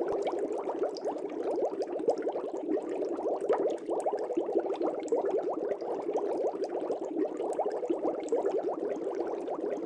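Steady, dense bubbling of air bubbles rising through the water of a fish tank, many small bubbles gurgling at once without a pause.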